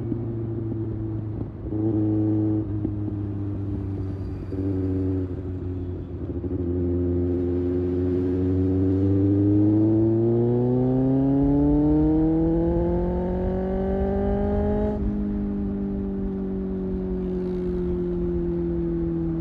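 Kawasaki ZX-6R's inline-four engine under way, with two brief throttle changes in the first few seconds, then a long pull rising steadily in pitch for about eight seconds. The note breaks suddenly at a gear change, then runs steady and falls slightly.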